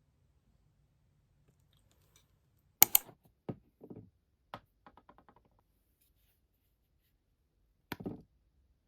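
Small objects being handled: a sharp click about three seconds in, then several softer clicks and taps, and a short double knock near the end.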